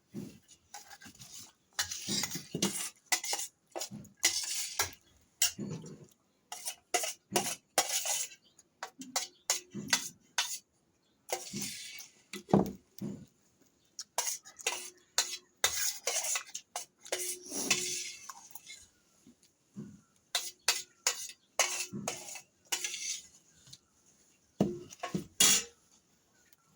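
Cutlery clinking and scraping on a plate of fried rice in irregular strokes, with sharp clinks among short scrapes.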